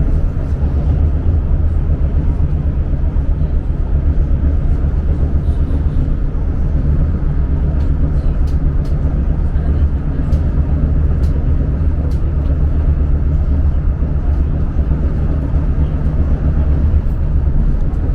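Renfe Avant high-speed train running, a steady low rumble with no change in pace. A few faint ticks come through in the middle.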